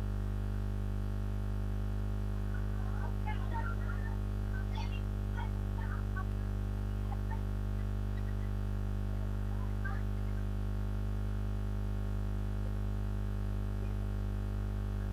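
Steady electrical mains hum with a ladder of even overtones, unchanging throughout. Faint scattered chirps, like distant voices, come and go in the first two thirds.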